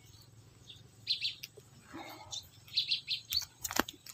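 A small bird calling: short runs of three or four quick high chirps, repeated every second or two. A couple of sharp clicks come near the end.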